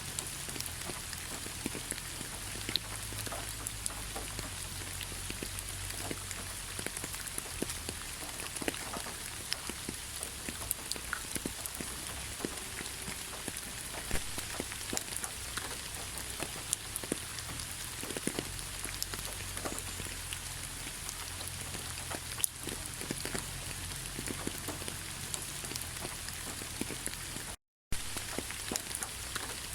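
Heavy rain falling steadily: a dense hiss with many separate drops ticking on a surface. The sound cuts out for a split second near the end.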